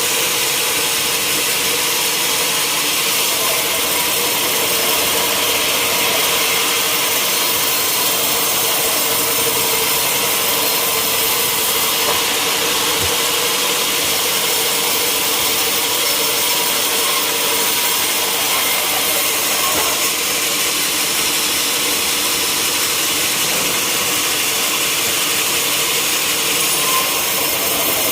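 A sawmill saw cutting through a teak log: a steady, unbroken cutting noise, mostly high-pitched, with a constant hum underneath.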